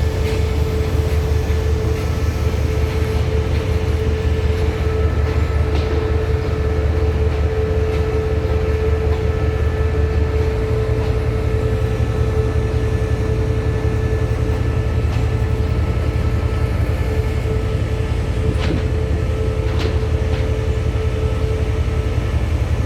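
Diesel-electric locomotive GEK 4012 running steadily with a constant low rumble and a steady hum, its engine note shifting about halfway through. Two short clicks come near the end.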